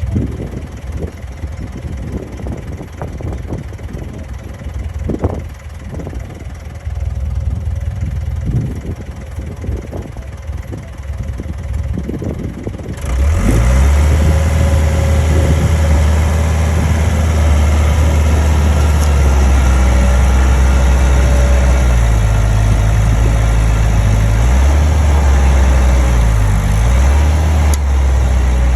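Heavy diesel machinery running, with scattered knocks and clatter. About halfway through it suddenly becomes much louder: a steady, deep engine drone whose pitch steps up and down several times near the end, as the engine is throttled.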